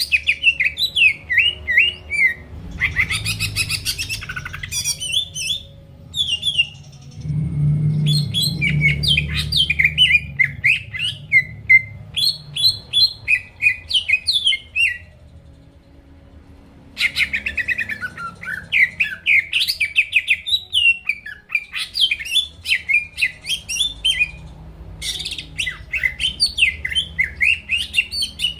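Green leafbird (cucak ijo) singing hard: long runs of rapid, sliding chirps and whistles, with brief pauses about halfway through and again near the end.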